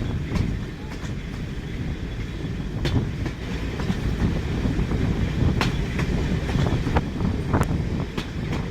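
A moving train, hauled by a Class 31 diesel locomotive, rolling along the track: a steady low rumble with irregular sharp clicks and knocks from the wheels and running gear.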